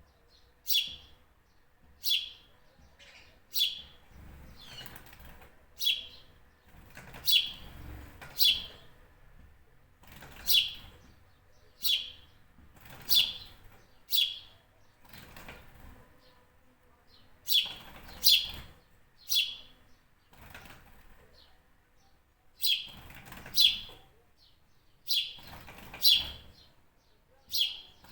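A bird repeating one short, sharp, high chirp about twenty times, roughly once every second or so, with a brief pause about two-thirds of the way through.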